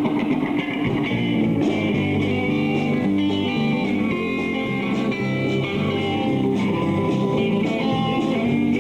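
Live rock band playing with electric guitar over bass and drums, cymbals ticking regularly, with no singing.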